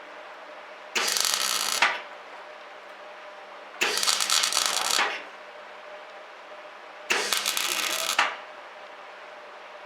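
Semi-automatic MIG welder laying short stitch welds on sheet steel: three crackling, sizzling bursts of arc, each about a second long and about three seconds apart. A faint steady low hum runs between the bursts.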